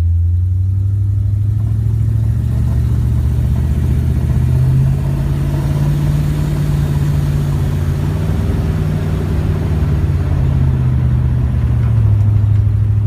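Twin-turbocharged 1972 Plymouth Valiant's engine running steadily while driving, its exhaust going through Flowmaster mufflers. The pitch climbs about four seconds in, holds, then drops back near the end as the engine settles to low cruising revs.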